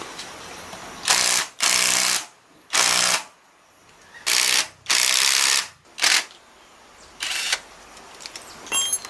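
A workshop tool run in short bursts, about seven in all, each lasting under a second, with brief pauses between.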